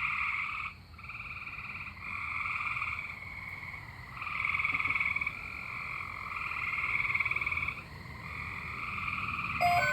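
A frog calling, one pulsed trill after another, each about a second long with short gaps between. Near the end a weather radio's electronic tones start up.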